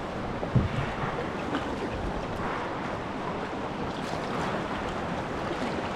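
River water rushing and splashing around a kayak, a steady rush with wind on the microphone, and a single thump about half a second in.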